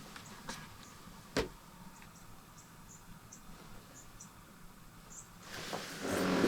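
A few sharp clicks, the loudest about a second and a half in, with a run of faint, short, high chirps in between. Close-up rustling starts near the end and grows louder.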